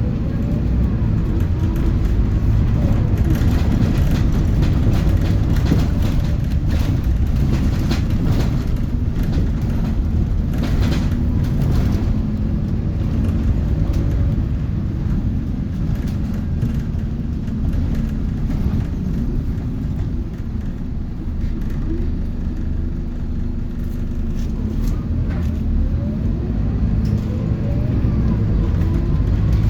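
Scania Lahti Scala K230UB city bus driving, heard from inside the passenger cabin: a steady low diesel and road rumble. Rising whines come as it pulls away near the start and again near the end, with light rattles in the first half.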